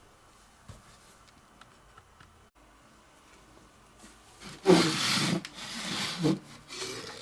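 Quiet room tone, then about four and a half seconds in, three loud bursts of scraping and rubbing with a few low knocks, like objects being slid and handled against each other.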